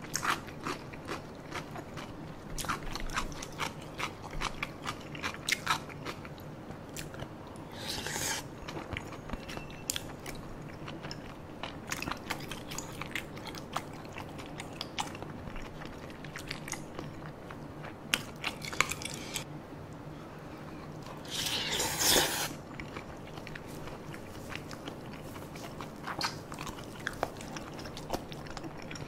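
Close-miked mukbang chewing of spicy tteokbokki rice cakes and boneless chicken feet: many wet mouth clicks and soft crunches. There are two brief louder rushes of noise, one about a quarter of the way in and a louder one about three quarters in, over a steady low hum.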